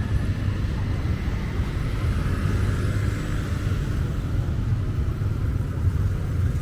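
A steady low rumble of outdoor background noise, with a faint higher hum above it.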